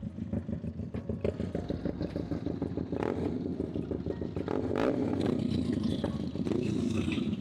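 Motorcycle engine running at low revs, with a rapid, even firing pulse that swells slightly around the middle.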